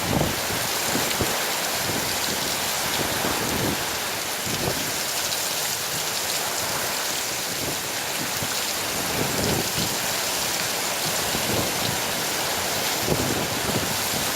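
Hurricane wind and heavy rain: a steady, dense hiss of rain with irregular low gusts of wind buffeting through it.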